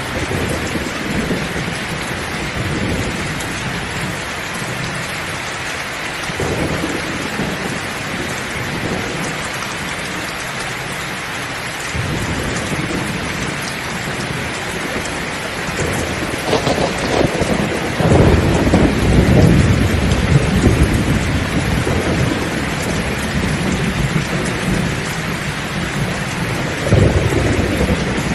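Heavy rain pouring steadily, with low rolls of thunder swelling up several times, the loudest about two-thirds of the way through and another shortly before the end.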